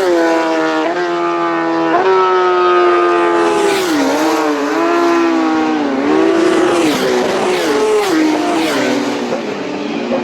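Racing motorcycles on a closed road circuit at high revs, engine notes rising and falling with gear changes and throttle as they pass.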